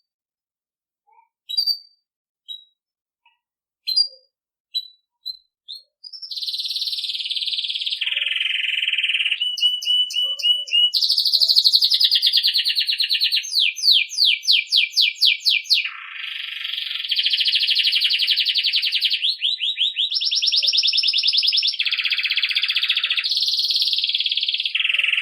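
Belgian canary singing campainha-style song: a few separate chirps, then from about six seconds in continuous song. The song is fast rolls and trills, each held for a second or two before it jumps to a higher or lower pitch.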